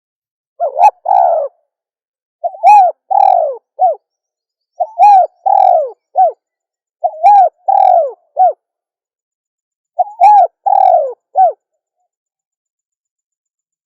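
Female spotted dove cooing: five short phrases of two to four coos each, a second or two apart.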